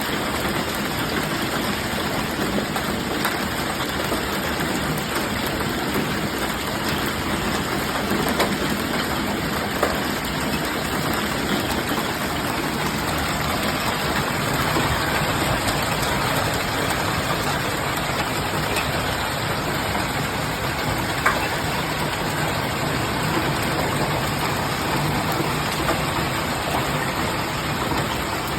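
Hail and rain pelting down in a steady, dense roar, with a few louder single hailstone strikes standing out.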